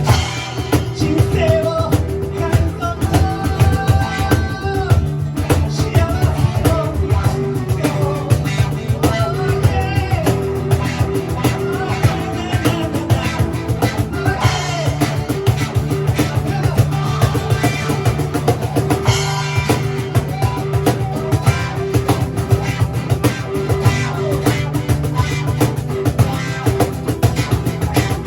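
Live rock band playing: drum kit, bass and electric guitar, with a pitched lead line winding over the steady groove.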